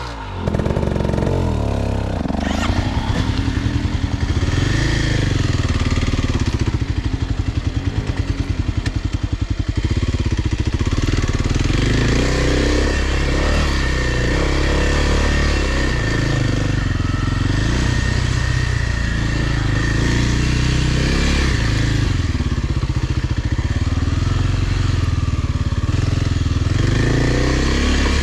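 Kawasaki dirt bike engine running under way, its pitch rising and falling repeatedly as the throttle opens and closes.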